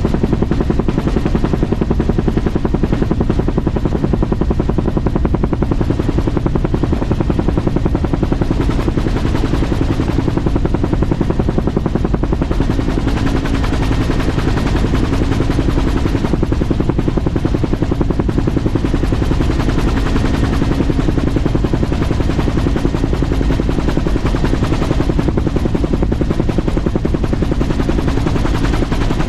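Helicopter running steadily, its rotor blades giving a fast, even chopping beat over the engine.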